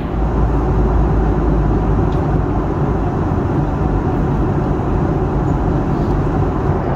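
Steady cabin noise inside a Boeing 737 in flight: a dense rush of airflow and jet-engine noise with a deep rumble underneath.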